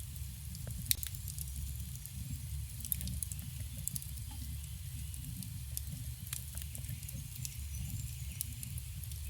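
Campfire burning: a steady low rumble of flames under scattered crackles and sharp pops of burning wood, the loudest pop about a second in.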